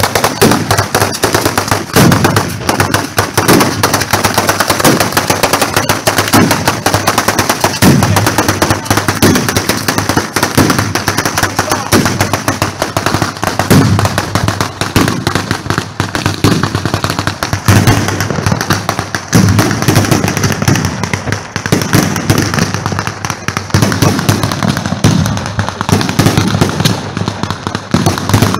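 Dense, continuous barrage of fireworks and firecrackers: rapid bangs and crackling, many per second without a break, with heavier booms every second or so.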